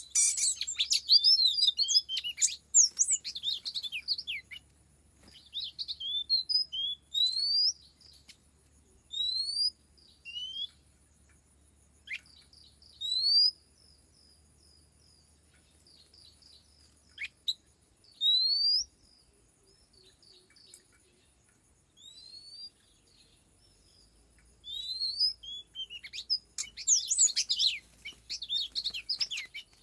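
Oriental magpie-robin singing: bursts of rich, varied whistled song at the start and again near the end, with single rising whistles spaced out between them.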